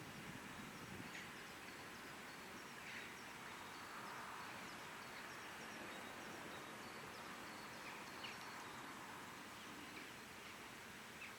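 Faint, steady outdoor background noise, a low hiss, with a few brief, faint high chirps scattered throughout.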